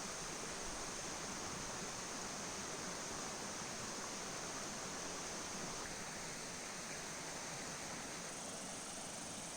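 Steady outdoor ambience: an even rushing noise, like flowing river water, with a constant high insect drone over it.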